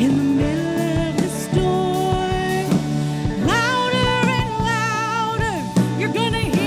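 Live contemporary Christian worship music: a singer holding long notes with vibrato over a band with steady keys and a regular drum beat.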